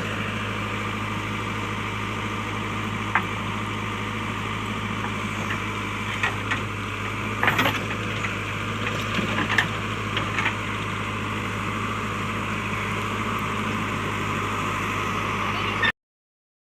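JCB backhoe loader's diesel engine running steadily, with a few short sharp knocks around the middle. The sound cuts off suddenly near the end.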